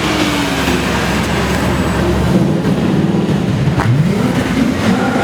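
A car engine revving, its pitch sinking over the first second and a half, then climbing sharply again about four seconds in.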